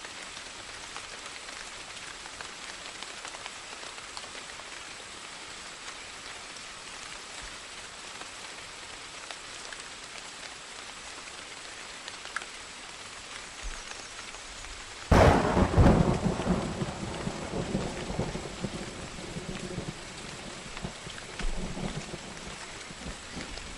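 Steady rain falling, with a sudden thunderclap about two-thirds of the way through that rumbles away over several seconds, and a smaller roll of thunder near the end.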